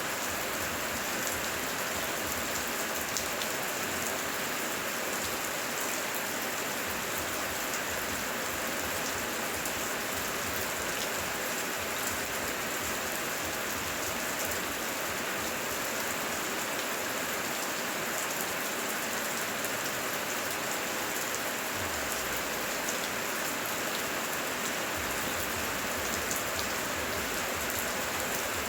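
Heavy rain falling steadily, an even dense hiss with scattered sharper drop ticks.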